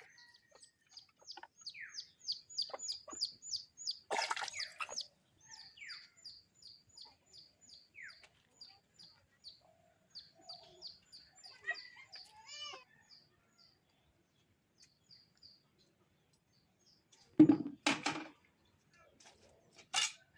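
A bird chirping in a steady run of short, high notes, about three a second, through the first two-thirds, with a chicken clucking briefly about twelve seconds in. Near the end come a few loud, sharp knocks or clatters.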